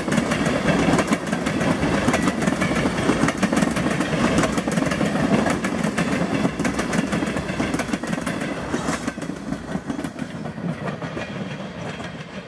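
Freight train tank cars rolling past close by: the steady rumble of steel wheels on rail with a rapid run of clicks from the wheels over the rail joints. It eases somewhat over the last few seconds.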